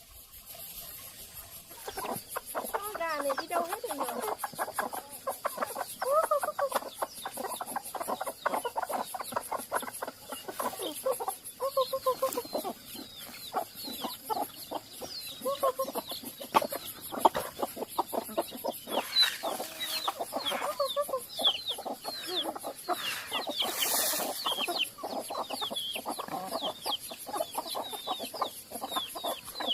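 A flock of chickens clucking in many short calls, with lots of short high chirps joining in from about halfway through.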